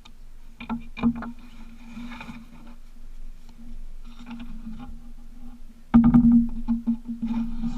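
Outboard motor running at a steady pitch on a 14-foot plywood tunnel-hull boat under way, with sharp knocks and thumps from the hull. The loudest thump comes about six seconds in.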